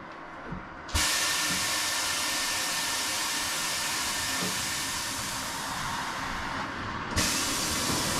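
Loud, steady hiss of compressed air rushing out, starting suddenly about a second in, with a brief break near the end before it resumes.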